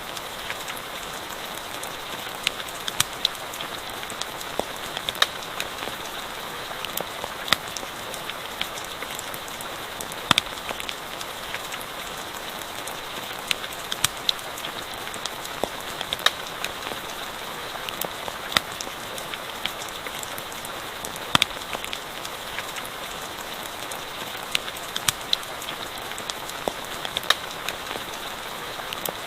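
Steady rain hiss with a campfire crackling: irregular sharp pops and snaps, a few every second, over the even patter of the rain.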